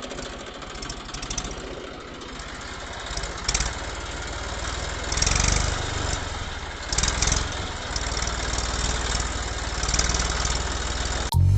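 A small engine running with a fast, even chatter of firing pulses, getting louder and softer several times.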